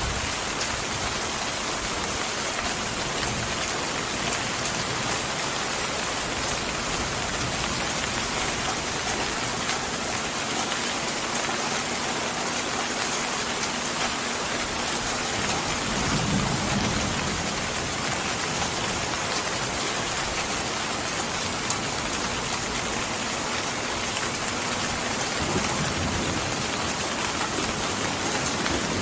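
Steady rain falling on a surface, an even hiss, with a low rumble swelling briefly about halfway through and again near the end.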